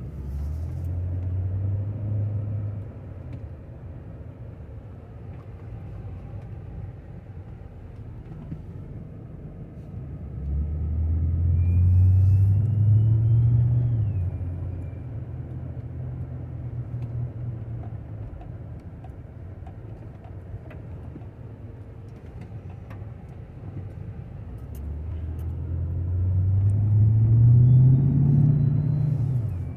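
Motor vehicles passing one at a time, each a low rumble that swells and fades: three pass-bys, near the start, about halfway through, and near the end.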